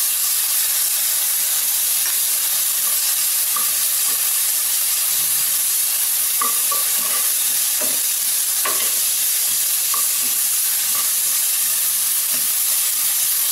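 Shallots, dal and spices sizzling in hot oil in a nonstick frying pan, a steady frying hiss, while ginger-garlic paste is stirred in with a steel spatula, which gives a few brief clicks against the pan.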